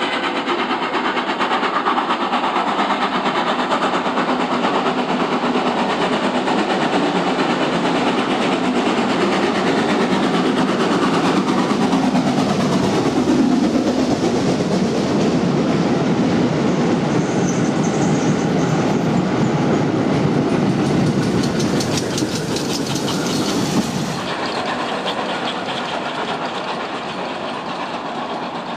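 A steam-hauled train of vintage Metropolitan Railway carriages running through a station with a steady rumble. About two-thirds of the way in comes a rapid clickety-clack of wheels over rail joints, which stops suddenly; the sound then drops and fades as the train moves away.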